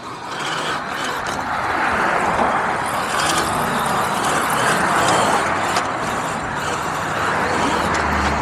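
Steady rushing noise of riding, wind and tyres, on an electric dirt bike, building up about half a second in and holding steady.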